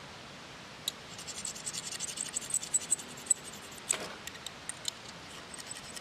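Quick, light scraping and clicking: a run of small sharp ticks several times a second begins about a second in, followed by a few louder separate clicks.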